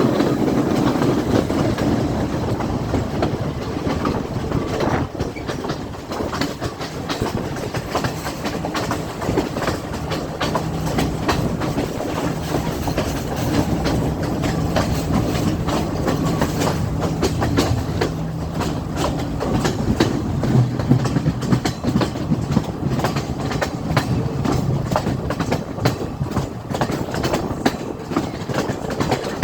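Passenger train running along the track, its wheels clattering over rail joints in a dense, uneven run of clicks over a steady rumble, with a low steady hum through the middle stretch.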